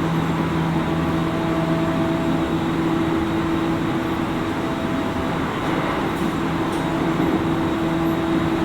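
Cabin running noise of a JR East 701 series 5500 subseries electric train under way: a steady rumble of wheels on rail. Two held, steady tones run through it and ease off for a couple of seconds partway through before returning.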